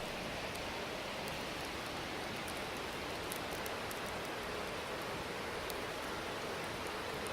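Wood fire burning in a SOOMLOOM fire pit: a steady hiss with scattered sharp crackles.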